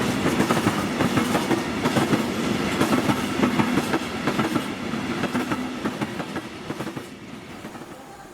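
Train passing at speed, its wheels clattering over the rail joints, the noise fading away about seven seconds in as the train goes by.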